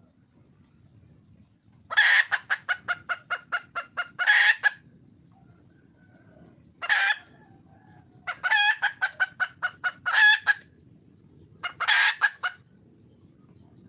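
Red junglefowl hen calling. There are four bouts: two runs of quick clucks, about five a second, each ending in a longer call, and a single call between them and after them.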